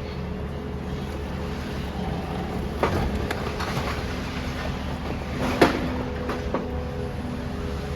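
Demolition excavator's diesel engine running steadily, with sharp clanks and knocks of metal and rubble about three seconds in and again a little past halfway, the loudest one then.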